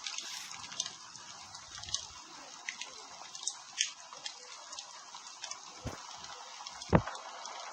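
Campfire crackling: a steady hiss with many small pops and snaps, and two louder sharp pops near the end, the second the loudest.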